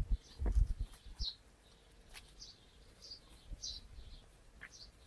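A small bird chirping repeatedly, short high chirps about once a second. In the first second there are louder low rumbling thumps and rustles.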